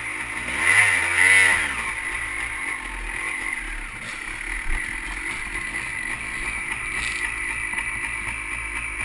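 Dirt bike engine running, revving up and back down about a second in, then running on steadily.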